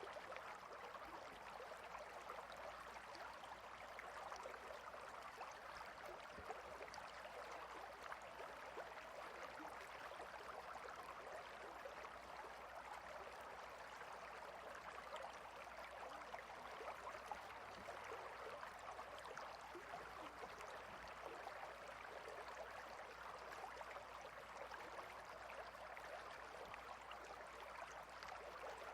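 Clear river flowing between rocks: a faint, steady rush of water with small scattered splashes.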